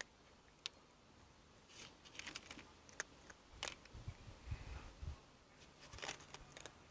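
A cat crunching dry kibble: faint, crackly clicking crunches in clusters, with a few soft low thuds around the middle.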